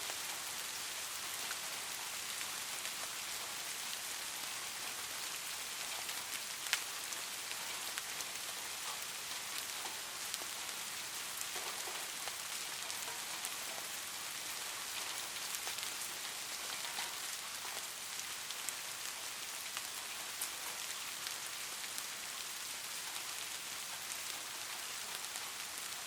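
Light rain falling steadily, a soft even hiss with scattered individual drop ticks.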